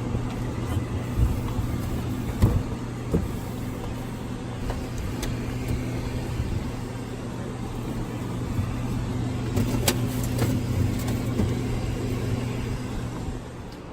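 A steady low hum, with a few light knocks and clicks scattered through it.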